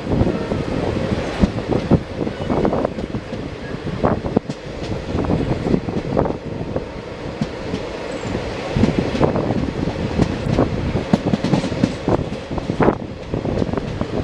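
Train wheels clattering over rail joints as railway coaches roll past: a steady rumble with many sharp, irregular clacks throughout.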